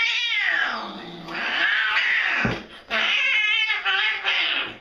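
A cat yowling: three long, drawn-out, wavering yowls.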